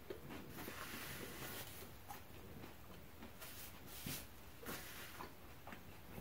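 Faint close-up chewing and wet mouth sounds from eating a bite of fried spring roll, with soft clicks scattered through. A paper napkin is rubbed over the mouth about four seconds in.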